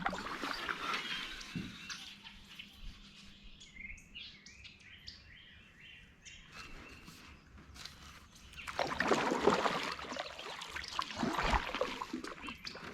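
Birds chirping over quiet outdoor background noise. For a few seconds past the middle comes a louder, rougher noise made of many short scrapes and splashes.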